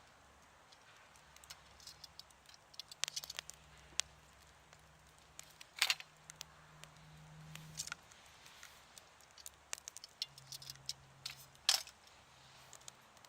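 Wood campfire crackling: irregular sharp pops and snaps, two louder pops about six seconds in and near the end, over a faint low hum.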